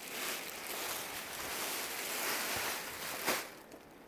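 Rustling of a dress being handled and moved about, steady for about three seconds, with a short louder brush a little after three seconds before it dies down.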